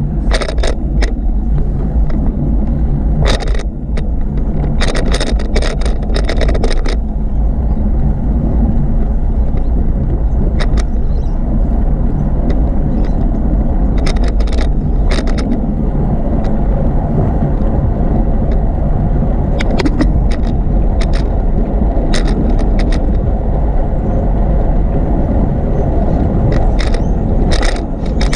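Steady low rumble of wind and rolling noise from a moving bicycle, with bunches of sharp rattling clicks in the first few seconds, again about halfway through, and near the end.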